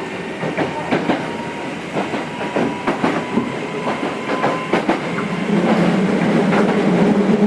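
Nose Electric Railway 5100 series electric train running, its wheels clicking over rail joints at irregular intervals. About five seconds in, a louder steady low drone sets in.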